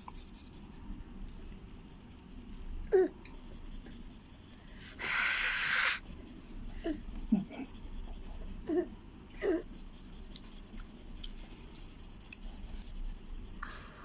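Colouring on paper: the scratchy rubbing of pen or crayon strokes, heard in stretches. About five seconds in there is a louder hiss lasting about a second, and a few brief sliding vocal sounds are scattered through the middle.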